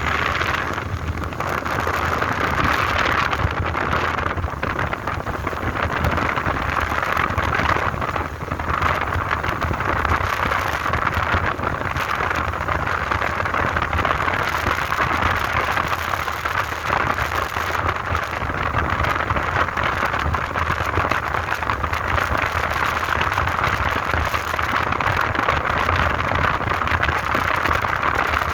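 Steady noise of a moving motorbike: a low engine rumble under a constant rushing hiss of air and road.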